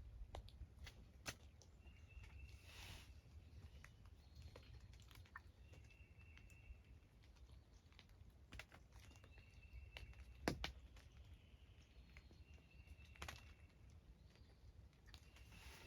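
Near-quiet woods: a faint, high, short bird call repeats five times, roughly every three seconds, over scattered light ticks and taps.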